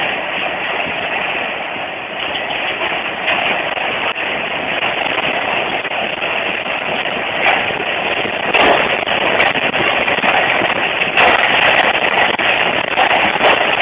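Earthquake rumble: a loud, steady roar, with sharp crackles joining about halfway through and coming more often near the end.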